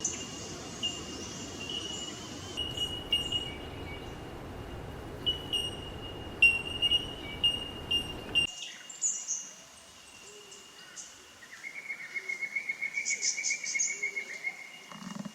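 Wild birds calling: short sharp chirps over a steady high-pitched tone, then, after a sudden drop in background noise partway through, a fast trill of many quick repeated notes through the last few seconds.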